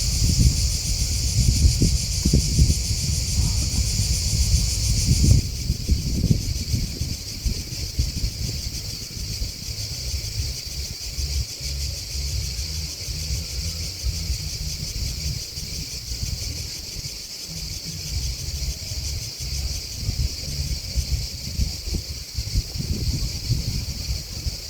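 Chorus of grasshoppers and crickets chirping in a steady high trill, which turns quieter about five seconds in. Under it runs an uneven low rumble, strongest at first.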